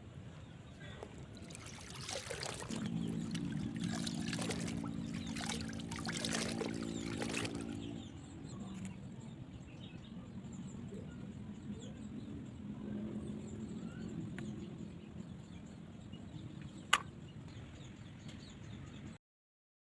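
Water pouring and trickling over a steady low hum, both strongest in the first half. There is one sharp click near the end.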